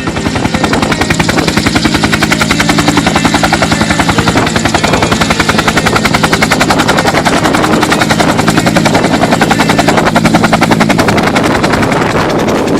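Aircraft running close by: a loud, rapid, even pulsing beat over a steady drone.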